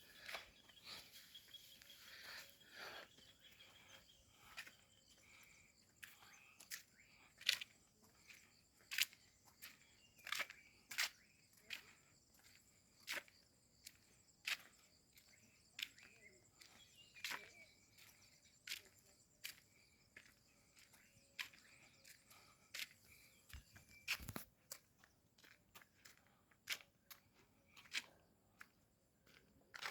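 Footsteps on a hanging footbridge: faint, irregular sharp taps and clicks about once a second, with one heavier thump near the end.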